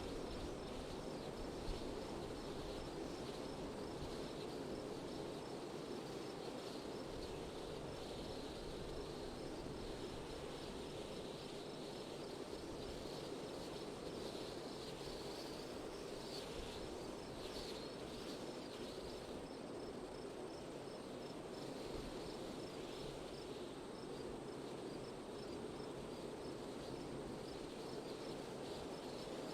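Steady wind noise, with an insect chirping in a regular high-pitched pulse throughout.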